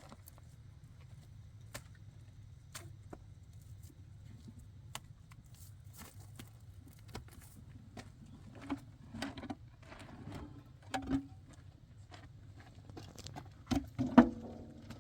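Scattered light clicks and taps over a low steady hum, with a few louder knocks in the second half, the loudest about a second before the end.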